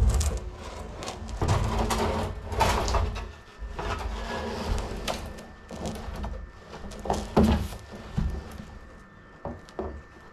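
Irregular knocks, thumps and rustling of things being handled and moved about in a small room, with the loudest thump at the very start.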